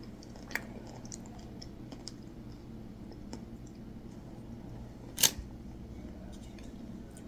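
Faint clicks of handling a food container and utensil, with one loud sharp click about five seconds in, over a low steady room hum.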